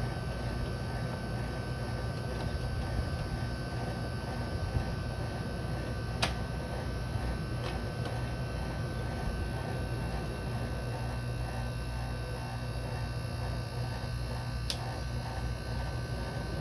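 Air conditioner running with a steady buzzing hum and a thin, steady high whine, with a faint click twice; a weird noise the owner says he can't identify.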